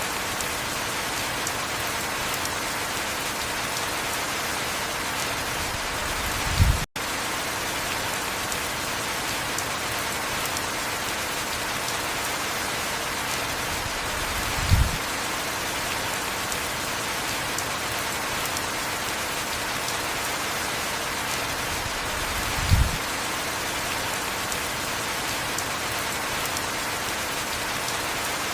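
Heavy rain falling steadily. Three short low thumps about eight seconds apart stand out as the loudest moments. The sound cuts out for an instant about seven seconds in.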